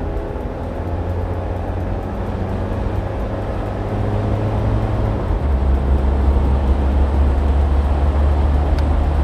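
A vehicle engine running with a steady low rumble, its tone shifting slightly lower and louder about five seconds in.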